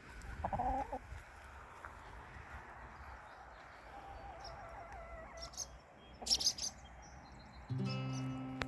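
Chickens clucking, with a short call in the first second and a fainter wavering call midway, plus a few sharp clicks. Acoustic guitar music starts near the end.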